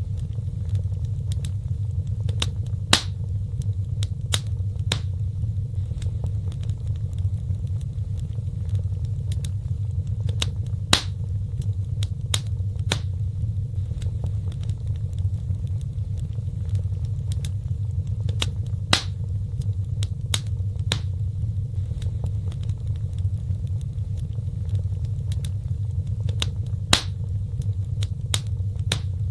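Wood fire burning in a fireplace: a steady low rumble with sharp crackling pops scattered throughout, the same pattern of pops coming back about every eight seconds.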